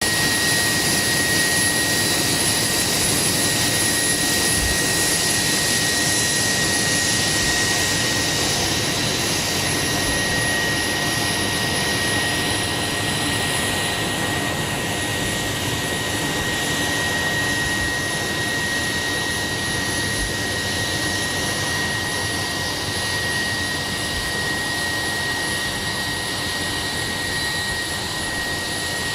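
Gas-turbine auxiliary power unit (APU) of a P-3 Orion aircraft running steadily: a constant rushing noise with a high, unchanging whine, easing off slightly in level over the stretch.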